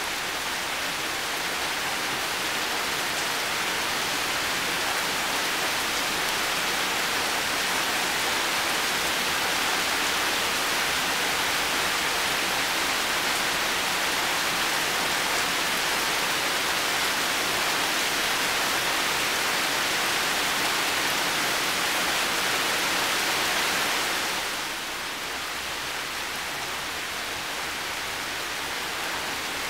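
Heavy rain falling steadily, a dense even hiss. About 25 seconds in it turns a little quieter and duller.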